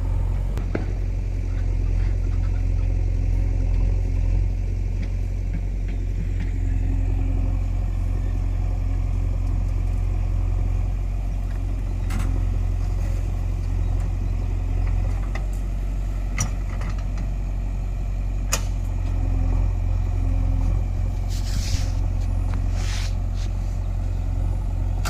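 Mahindra 585 DI tractor's four-cylinder diesel engine running steadily at an even speed, with a deep low drone.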